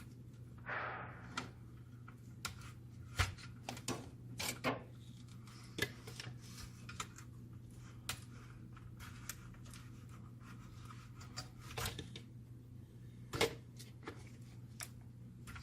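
Copier fuser unit parts being handled and taken apart by hand: scattered clicks and taps of plastic and metal, with a short rubbing slide about a second in, over a steady low hum.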